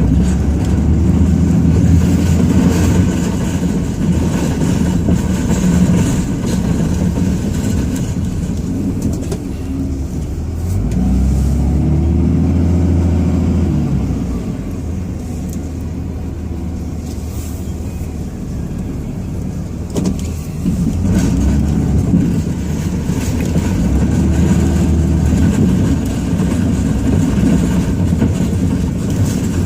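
Ram 2500's Cummins inline-six turbo-diesel engine running under load, heard from inside the cab, revving up and easing back down twice, about ten seconds in and again a little past twenty seconds, with a short knock between the two.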